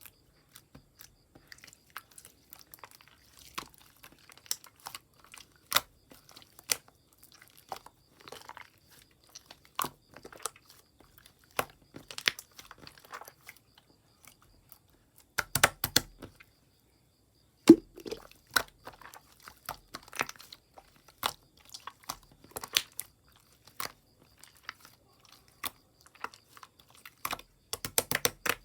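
Irregular sharp clicks, taps and crunchy crackles close to the microphone, a few at a time with short gaps and a quick run of them near the end, with a faint steady high whine underneath.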